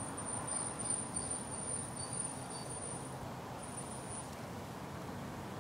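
Steady low outdoor background rumble, like distant traffic, with a thin high-pitched insect buzz over it. The buzz runs for about three seconds, stops, and comes back briefly about a second later.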